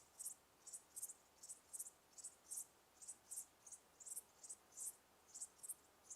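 Cricket chirping in a steady rhythm: short high chirps, two or three a second and often in pairs, over a faint hiss.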